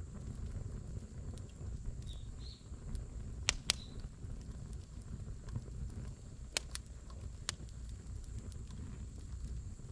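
Firewood burning in a campfire pit: a steady low rumble of flames with scattered sharp crackles and pops, the loudest a pair about three and a half seconds in and another pair about six and a half seconds in.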